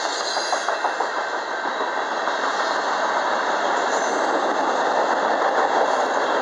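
Freight cars rolling past at speed: a steady rumble and rush of steel wheels on rail, with a quick run of wheel clicks in the first second and a half.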